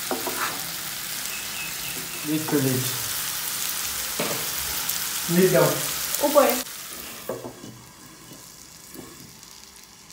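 Chopped long beans frying in hot oil in a pan, a steady sizzle. The sizzle cuts off suddenly about six and a half seconds in, and it goes much quieter.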